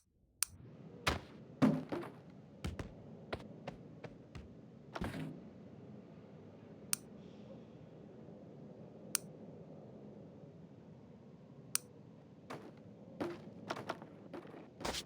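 Irregular sharp clicks and knocks, about twenty of them and some in quick clusters, over a steady low hiss.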